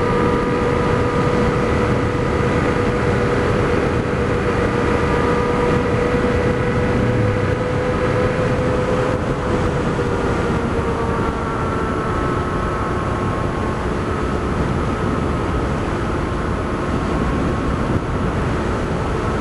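Honda CRF250L dual-sport motorcycle's single-cylinder engine running at a steady pitch while riding, with wind rush heard through a helmet-mounted camera. The engine note dips slightly about halfway through.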